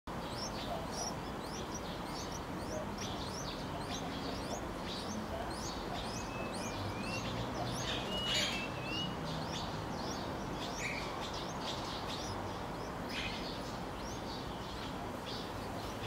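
Small birds chirping in a steady run of short, high, downward chirps, with a couple of short whistled notes near the middle.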